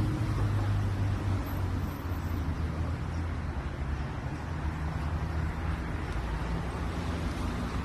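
Steady low engine rumble, like a motor vehicle running close by, with a hum that eases off in the first second and then goes on lower.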